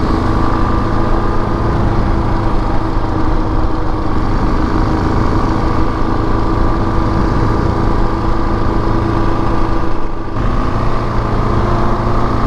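KTM 690 Enduro R's single-cylinder engine running at a steady cruising speed, with a brief dip in level about ten seconds in before it picks up again.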